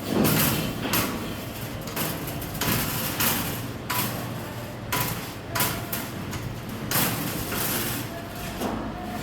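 Iron wire being worked by hand: irregular metallic knocks and scrapes, roughly one a second, some ringing briefly.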